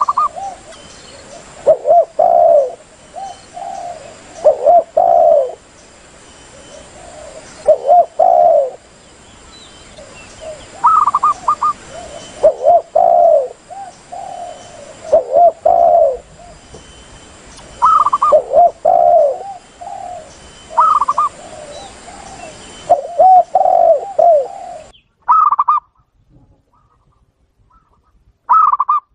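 Spotted doves and zebra doves cooing, a bird-lure recording. Repeated lower cooing phrases mix with short higher coos, over a faint steady hiss; the calls thin out near the end.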